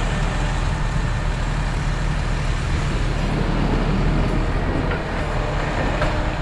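Motor vehicle engine and road noise, a steady low rumble while driving.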